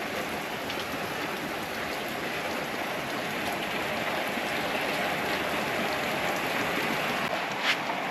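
Torrential downpour: heavy rain falling steadily and densely, with a single sharp tap near the end.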